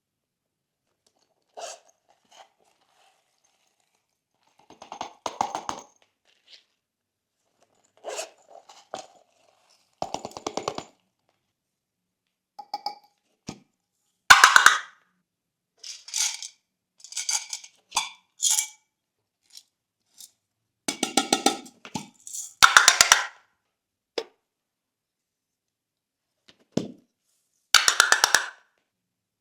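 Thick glossy slime being pressed and worked by hand, giving short bursts of rapid wet pops and crackles, about a dozen separate bursts with silent pauses between them.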